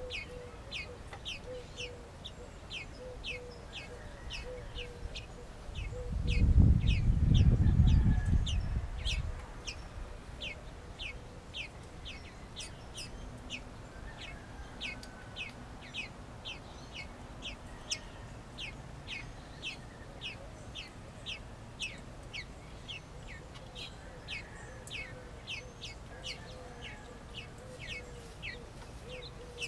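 Birds chirping: short, high, downward chirps repeated about twice a second, with chickens clucking faintly underneath. A loud low rumble lasts about three seconds, starting some six seconds in.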